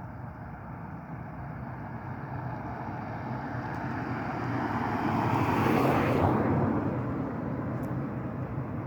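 A vehicle passing by. Its rushing noise builds over about five seconds, peaks about six seconds in, then fades.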